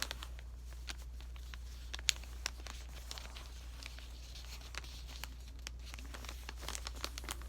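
Sheet of paper being handled and folded, with scattered crinkles, rustles and light taps, one sharper click about two seconds in, over a steady low hum.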